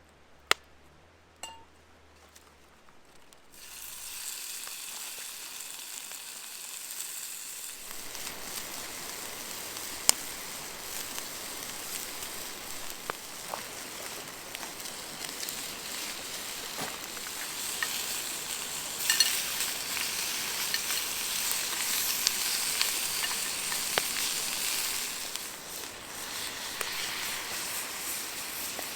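Food frying in a pan over a campfire: a sizzle that starts about three and a half seconds in and grows louder, with occasional clinks of a utensil in the pan.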